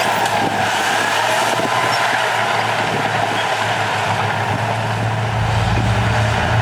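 Heavy diesel engine of earthmoving machinery running under work, with a constant mechanical clatter and hiss. Its low engine note eases off at the start and builds back strongly about five seconds in.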